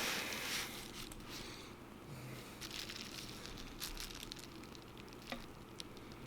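Faint scraping and rubbing with a few light clicks, as old adhesive is cleaned off an iPhone 7 Plus frame.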